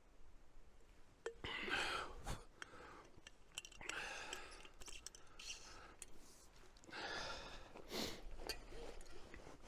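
A person breathing out heavily in several long breaths, with a few small clicks between them.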